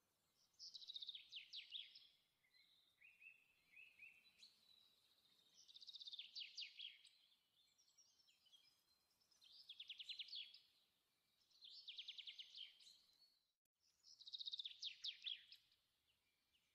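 Faint songbird singing: five short phrases of rapid, quickly repeated falling notes, a few seconds apart.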